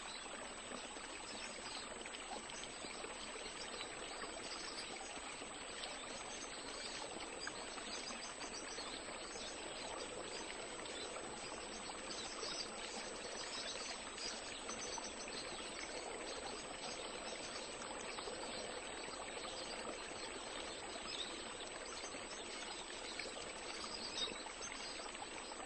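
Faint, steady wash of water, an even hiss with no breaks or distinct events.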